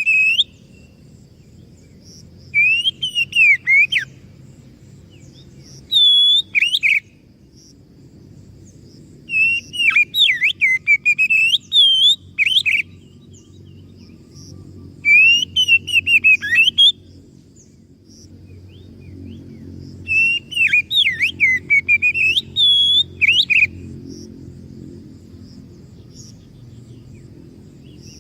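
Oriental magpie-robin (kacer) singing: phrases of fast, varied whistled notes, about five of them with pauses of a few seconds between, over a low steady background hum.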